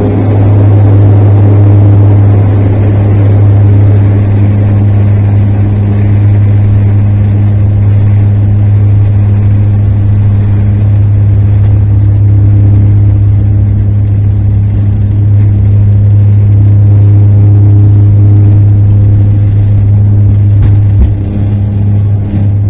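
Aircraft engines running at takeoff power, heard inside the passenger cabin: a loud, steady low hum over a constant rumble.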